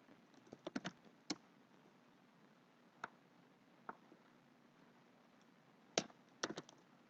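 Computer keyboard keystrokes and clicks, scattered and faint: a quick run of several about a second in, single clicks near three and four seconds, then a sharper click and a short run of keystrokes near six seconds.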